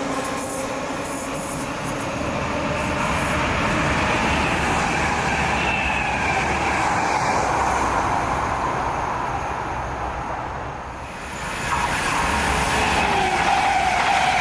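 Electric trains running through a station: an SL X60 commuter electric multiple unit with rail rumble and high whining tones, then after a short drop in level near the end an SJ X2000 high-speed train, its high tone slowly falling.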